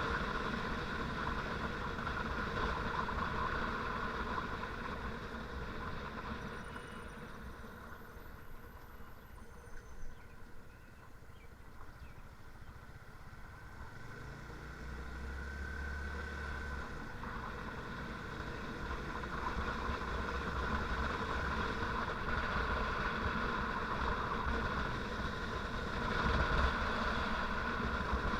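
Motorcycle running along a road, its engine mixed with wind and road noise. The sound eases off in the middle, then builds again as the engine note rises.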